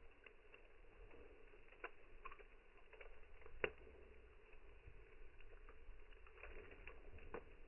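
Campfire crackling faintly, with sparse irregular pops and one sharper pop about three and a half seconds in.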